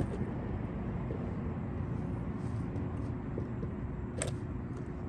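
Steady low rumble of outdoor urban background noise with a faint steady hum, and one brief sharp click about four seconds in.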